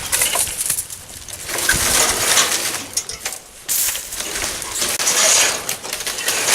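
Irregular rustling and scraping as junk and old wire are pulled out of a dump truck's bed, coming and going in uneven surges.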